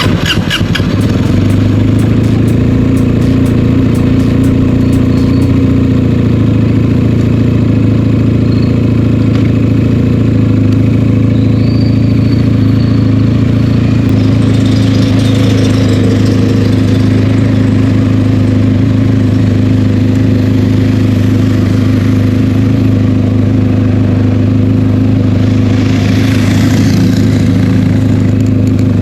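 Benelli TNT 300 parallel-twin engine idling steadily on its stock exhaust, holding an even pitch with no revving.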